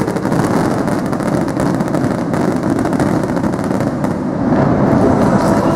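Aerial firework shells bursting overhead: a dense, continuous crackle and rumble that gets louder over the last second or so.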